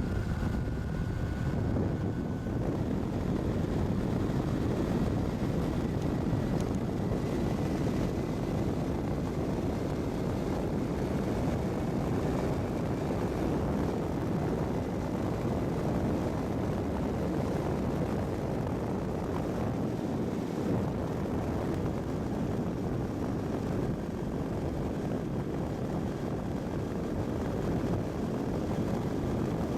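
Kawasaki Balius 250's inline-four engine running through a Wr's aftermarket muffler with its baffle fitted, heard on the move at a steady pace, mixed with a constant rushing noise of wind and road.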